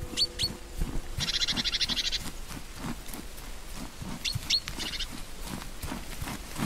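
Small birds calling in a snowy forest: short high whistled notes, then a fast rattling trill about a second in, repeated about four seconds in. Under them are soft, irregular low thumps.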